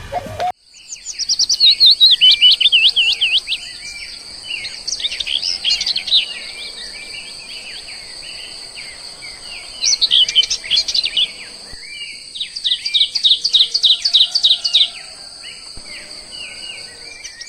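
Small birds chirping and trilling in quick high bursts, several times over, above a steady high insect drone.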